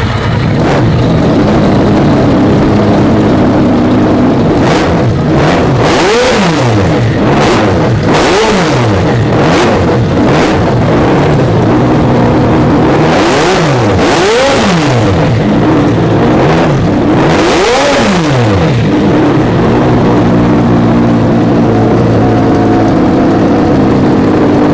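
A 12-rotor rotary engine running at a fast idle and revved hard four times in quick blips, its pitch climbing and falling within about a second each time. Sharp cracks come through among the revs, and the engine settles back to a steady idle near the end.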